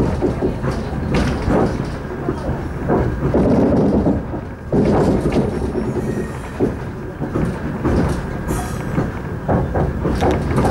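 Suburban train moving, heard from inside the carriage: a steady low rumble of wheels on rail with irregular knocks and clacks as the wheels cross rail joints.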